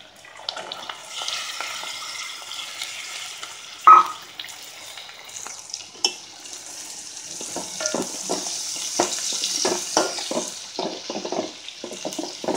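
Chopped amaranth stalks sizzling in hot oil and fried onions in an aluminium pot, the sizzle growing louder past the middle. A single sharp clank comes about four seconds in, then a steel spoon stirring and scraping against the pot in quick irregular knocks through the second half.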